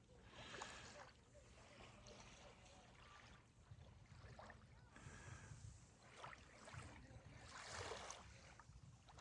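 Near silence: faint outdoor ambience with soft swells of hiss, one at the very start and another near the end.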